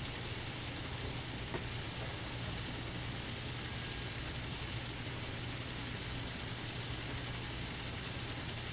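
Steady low hum of N scale model locomotives running on the layout, with no changes or distinct clicks.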